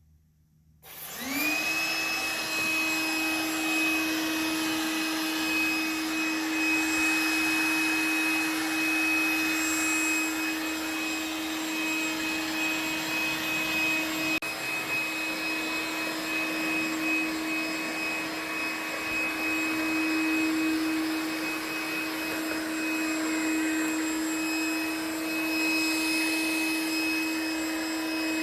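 Trifo Lucy robot vacuum starting about a second in: its motor spins up quickly and then runs steadily, a hum with a high-pitched whine over a rushing airflow noise.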